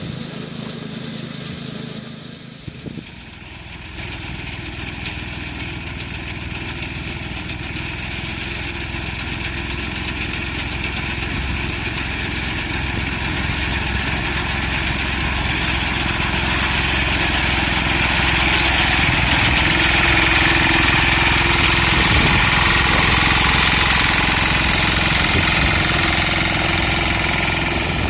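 A mini tractor's engine runs steadily. After a brief dip about three seconds in, it grows louder over the next fifteen seconds or so and then holds level.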